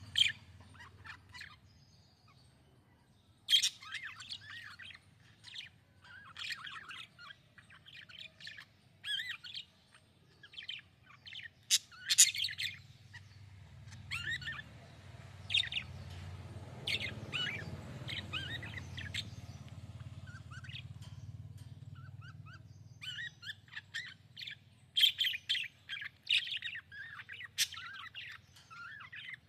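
Budgerigars chirping and chattering in irregular bursts of quick, high chirps, with short pauses between the clusters.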